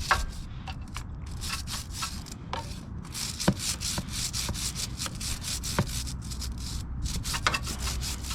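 A brush scrubbing a motorcycle chain in repeated back-and-forth strokes, about two a second, with a few sharp clicks.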